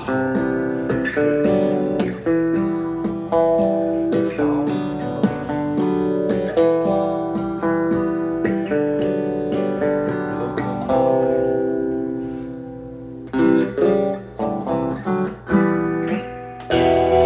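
Instrumental guitar music: acoustic guitar notes and chords picked and strummed, without singing. Near the middle it fades briefly, then a run of sharper plucked notes follows.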